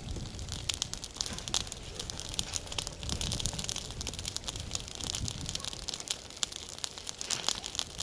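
Campfire crackling and snapping in an irregular patter of small sharp cracks.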